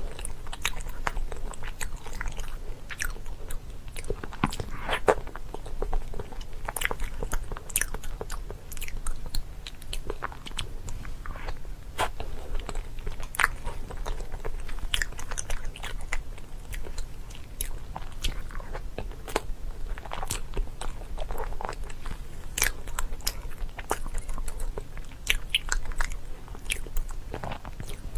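Close-up biting and chewing of crunchy food: many sharp, irregular crunches, several a second, all the way through.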